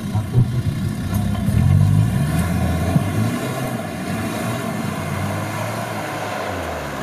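Off-road 4x4 vehicle engine working under load, revs rising and wavering for the first couple of seconds and then holding steady, with a sharp knock about three seconds in.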